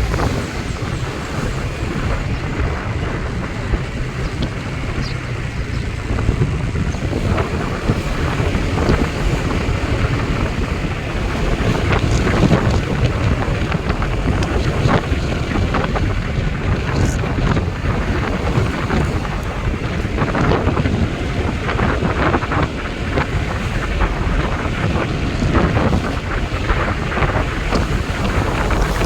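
Wind blowing hard across the microphone: a steady rush with frequent crackling gusts, a little louder from about twelve seconds in.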